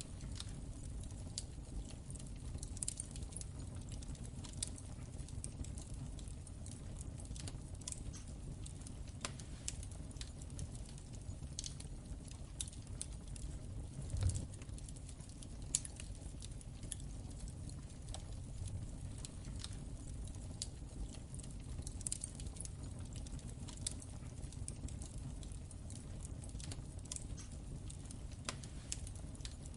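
Crackling wood fire in a fireplace: a steady low rumble of flames with irregular sharp crackles and pops, one louder pop about halfway through.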